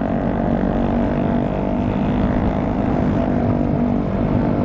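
Motorcycle engine running at a steady cruise, with wind rush over the microphone.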